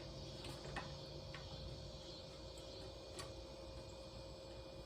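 A few faint, scattered small clicks of ceiling-fan blade screws and a screwdriver being handled, over a steady faint hum.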